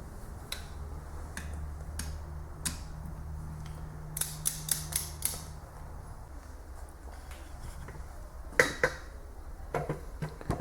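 Scattered sharp metallic clicks and knocks of tools and engine parts being handled, including a quick run of about five clicks in the middle and two louder knocks near the end. A low steady hum runs under the first half.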